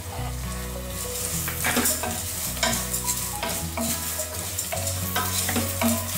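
Spatula stirring and scraping green moong, onion and grated ginger frying in a stainless steel pan, over a steady sizzle; the scraping strokes come again and again from about a second in.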